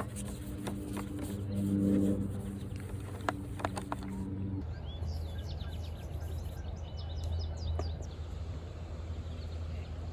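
Small birds chirping, with a short trill, over a low steady hum in the second half. Before that, a steady low drone with several pitches and a couple of sharp clicks, which stops abruptly about four and a half seconds in.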